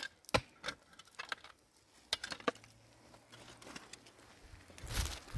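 A few sharp clicks and knocks at irregular intervals, with a louder knock about five seconds in.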